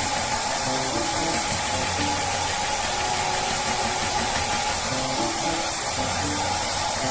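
Hair dryer blowing steadily, with light background music playing over it.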